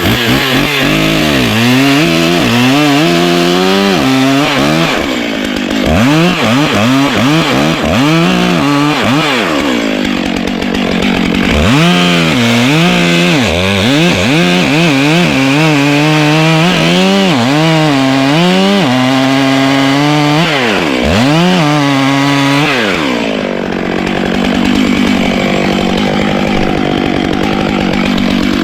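Chainsaw cutting wood. The engine's pitch dips and recovers again and again as the chain loads in the cut, then it runs more evenly for the last few seconds.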